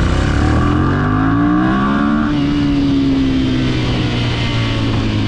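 Motorcycle engine accelerating, its pitch rising for about two seconds and then levelling off and easing slightly.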